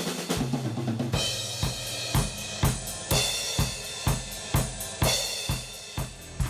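Acoustic drum kit played in a steady groove: kick, snare and hi-hat hits about twice a second, with a cymbal crash about every two seconds.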